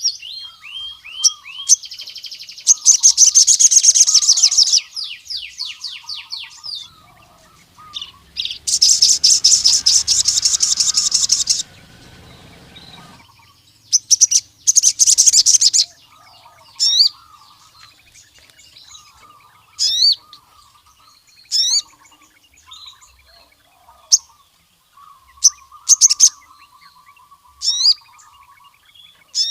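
Male sogon (a sunbird) in full song: loud runs of rapid, high trills, then a series of sharp, upward-flicking chirps spaced a second or two apart, over a softer, lower twittering.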